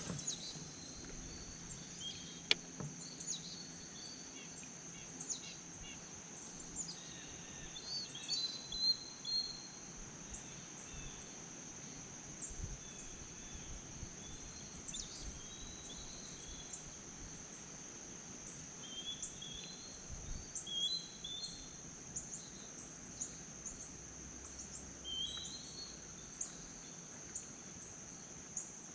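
A steady high insect drone with scattered short bird chirps throughout, and a few brief knocks and clicks.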